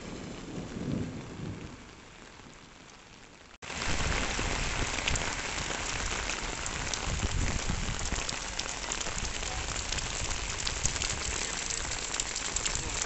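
Thunder rumbling and dying away over the first two seconds. Then, from about three and a half seconds in, heavy rain pours onto a waterlogged paved street, a steady loud hiss with dense drop splashes.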